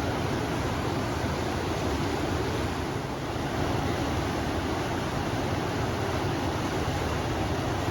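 River water rushing steadily, with wind blowing.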